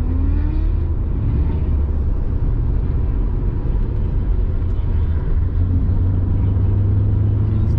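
S197 Mustang's 4.6-litre V8 running under way, a steady low drone of engine and road noise heard from inside the car, with a short rise in engine pitch in the first second. The engine is running with its cylinder 3 misfire repaired after a cam phaser and timing chain job.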